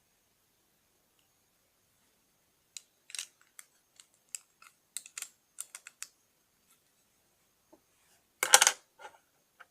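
Plastic Lego bricks being handled: a run of sharp, separate clicks and taps, then a louder brief clatter near the end.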